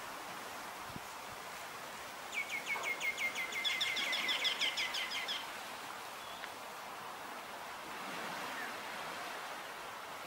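A bird's rapid chattering call, a run of short chirps at about eight a second that grows louder over about three seconds, starting a couple of seconds in. Under it runs a steady outdoor hiss.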